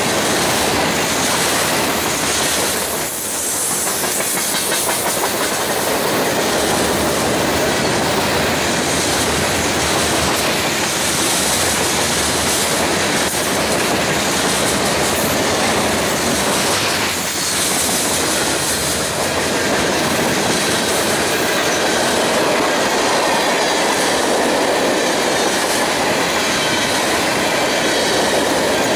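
Freight train cars rolling past close by: a steady rumble of steel wheels on rail with clacking over the rail joints, dipping briefly twice.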